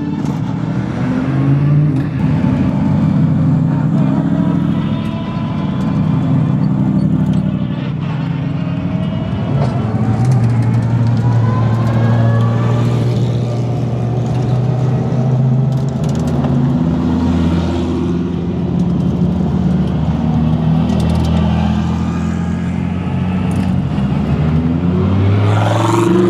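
Race car engines running at low speed in a slow procession, idling and burbling with repeated blips of the throttle; one engine revs sharply upward near the end.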